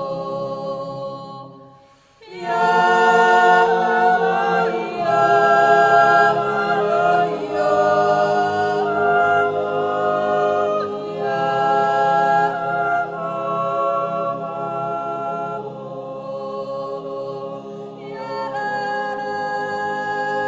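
Choral background music: many voices singing slow, held chords, fading out briefly about two seconds in and then coming back in full.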